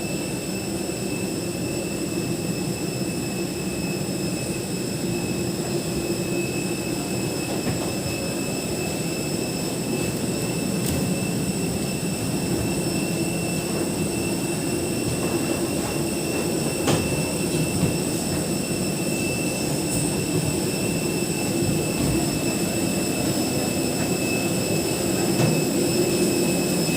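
Steady low rumble and hum of a moving vehicle's interior, with a constant faint high whine and a couple of light clicks.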